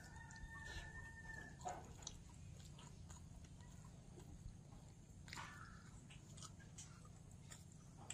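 Faint eating sounds: soft chewing with scattered small mouth clicks. A faint held tonal call lasts about a second and a half at the start, and a shorter one comes about five seconds in.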